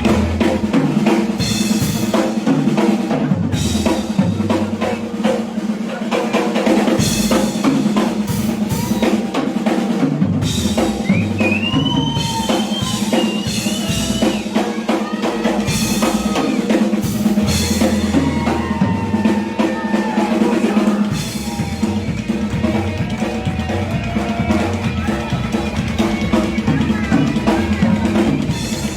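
A rockabilly trio plays an instrumental stretch with no singing, driven by a drum kit with kick drum, snare and rimshots. A steady bass line runs underneath, and cymbal crashes come every few seconds. Electric guitar lines with bent notes come in partway through.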